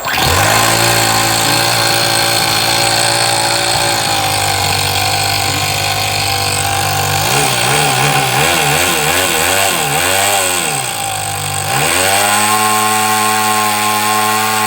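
Toyan FS-S100 miniature single-cylinder four-stroke glow engine running steadily, then revved up and down several times about halfway through before settling at a higher, steady speed.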